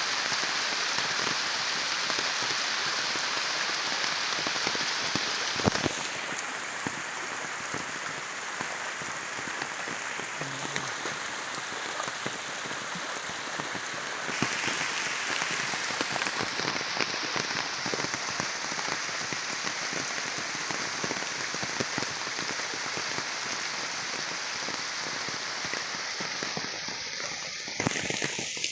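Steady heavy rain: a dense, even patter of many drops falling on a surface. Its tone shifts abruptly about six seconds in and again about halfway through.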